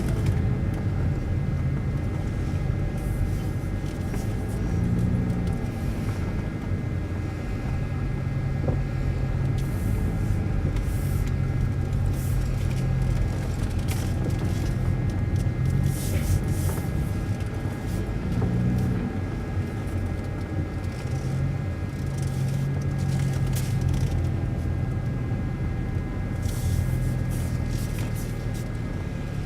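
A BMW 328i E90's 3.0-litre straight-six with a muffler delete, running with a low exhaust drone that swells and eases as the engine speed changes.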